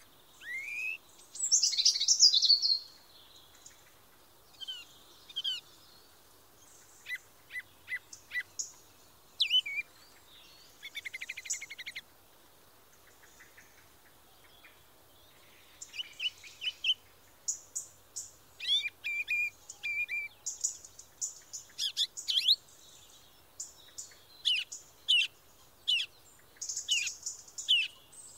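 Small songbirds chirping and singing: a string of short, high whistled notes and chirps in varied phrases, including a fast trill about eleven seconds in and a quiet pause of a few seconds near the middle.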